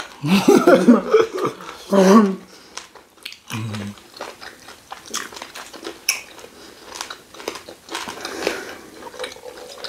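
Close-up mouth sounds of people eating fufu with ogbono soup by hand: chewing, wet smacks and small clicks. A voice is heard in the first two seconds, and a short hummed "mm" about three and a half seconds in.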